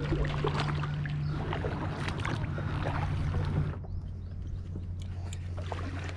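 Kayak paddles dipping and splashing in the water, with irregular light knocks, over a steady low hum.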